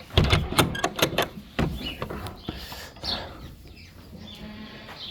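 A quick run of sharp knocks and rattles for about the first second and a half, then a faint goat bleat.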